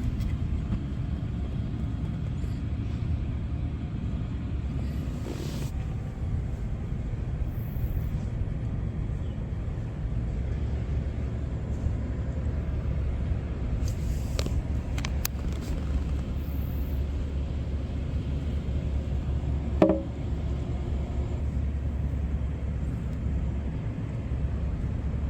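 Steady low outdoor rumble with no clear pattern, with a single sharp click about twenty seconds in.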